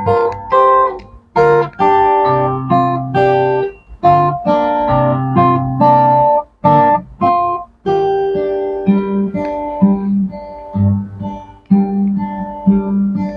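Solo guitar playing a slow piece: a plucked melody over ringing bass notes, with a few chords struck across the strings.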